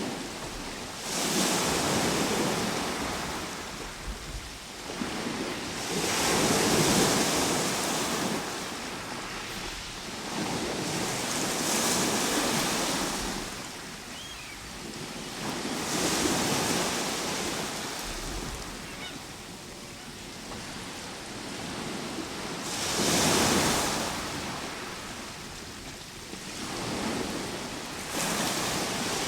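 Ocean surf: waves breaking and washing in, swelling into a loud rush every few seconds, with quieter hiss in between.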